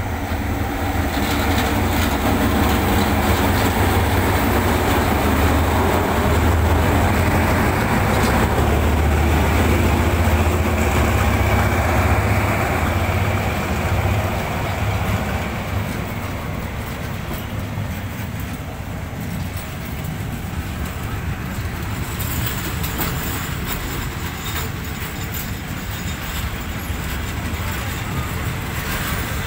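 Passenger train carriages rolling past on the adjacent track, a steady low rumble with clattering wheel noise. About halfway through it eases off, leaving a quieter steady rumble.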